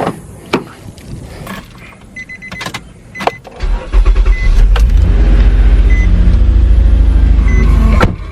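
Car door and handling clicks with a few short high beeps, then the car's engine starts about four seconds in and runs with a loud, steady low rumble.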